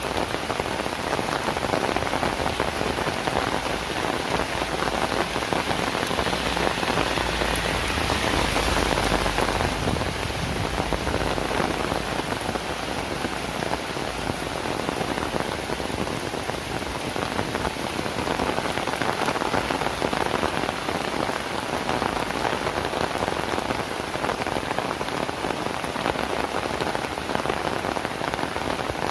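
Heavy rain falling in a steady dense hiss. It swells for a few seconds with a low rumble underneath, starting about six seconds in.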